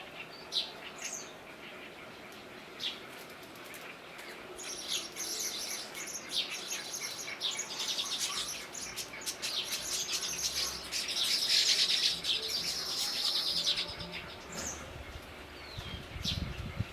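Small birds chirping: a few separate high chirps, then a dense run of rapid, high-pitched chirping for about ten seconds, loudest near the middle, before it thins out to single chirps again.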